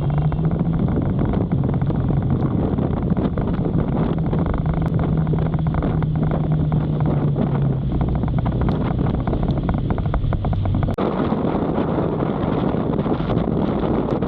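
Wind rushing over the microphone of a motorcycle riding in heavy rain, with the engine's steady hum underneath. The hum steps down in pitch twice and drops out about eleven seconds in.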